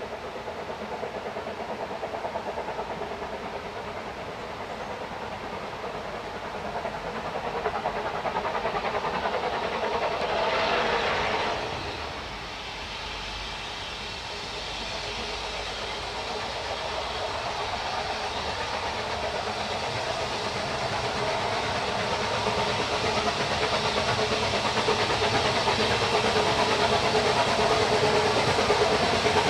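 Narrow-gauge steam train running, with a steady mix of locomotive working and rail noise that grows gradually louder toward the end. About eleven seconds in there is a brief louder rush of hiss.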